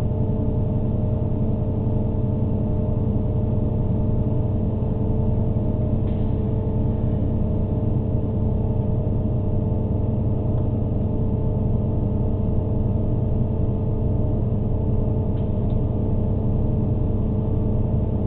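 Regional diesel train running at steady speed, heard from inside the carriage: a constant drone with a hum of several steady tones over the rumble of the running gear.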